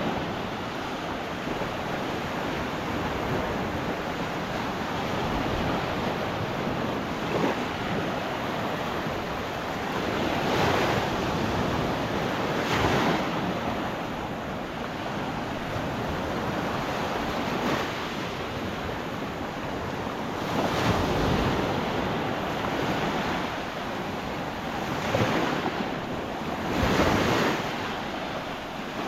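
Small Gulf of Mexico waves breaking and washing up the sand in a steady rush, swelling louder with each break every few seconds. Wind buffets the microphone with a low rumble.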